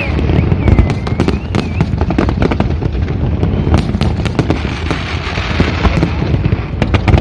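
New Year fireworks display: a dense, continuous run of bangs and crackles, with a high wavering whistle about a second in.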